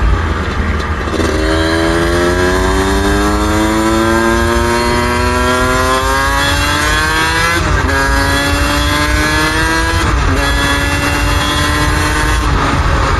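Suzuki RM125 two-stroke single-cylinder engine pulling up through the gears while riding: the pitch rises steadily for several seconds, drops at an upshift, climbs again, drops at a second upshift, then holds fairly steady. Heavy wind rumble on the microphone underneath.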